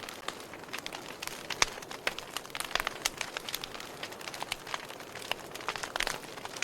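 Wood fire crackling in a fireplace: irregular sharp pops and snaps of varying loudness over a soft steady hiss.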